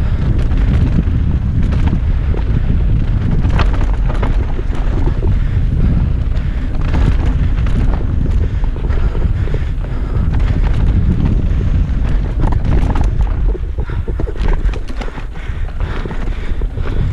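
Mountain bike descending a rough dirt trail at speed, with steady wind rumble on the microphone and a constant rattle of clatters and knocks from the bike over rocks and ruts.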